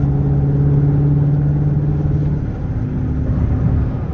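Straight-piped exhaust of a Dodge Charger R/T's 5.7-litre HEMI V8, running loud and steady while driving. About two and a half seconds in, the engine note drops and changes.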